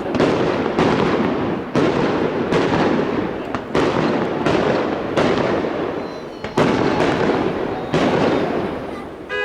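Fireworks display: aerial shells bursting in a rapid string, a sharp bang about once a second over a continuous noisy rumble, easing off near the end.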